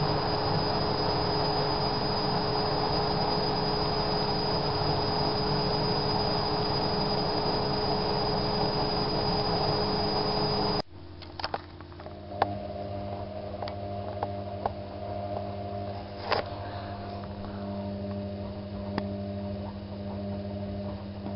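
Bauknecht WAK7751 washing machine running, a loud steady drone with a high whine, from a drum whose bearing the owner says is slowly wearing out. About halfway through, the motor cuts off suddenly, leaving a lower steady hum with scattered clicks and ticks.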